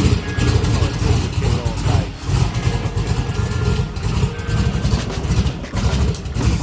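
A motor vehicle's engine running, with faint voices behind it.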